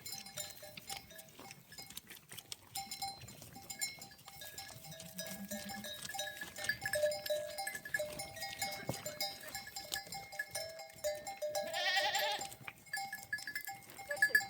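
A flock of sheep and goats with neck bells clinking and jangling, broken now and then by bleats. A low bleat comes about five seconds in, and a louder, rising bleat near the end.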